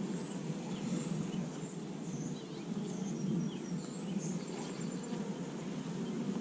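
Honeybees buzzing steadily around an open hive, with small birds chirping faintly in the background.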